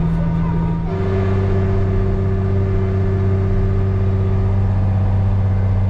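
Farm tractor engine running steadily under load. Its note steps up slightly about a second in, and a steady whine rides over it until near the end.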